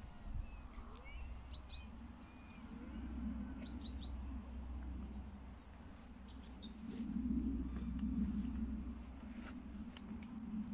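Small birds chirping in short, high calls, some in quick runs of two or three, over a steady low rumble.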